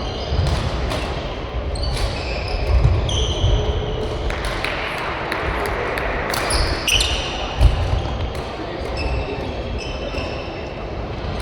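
Badminton players' shoes squeaking and thudding on a court floor, with sharp racket strikes on the shuttlecock, many short squeaks scattered through the rally.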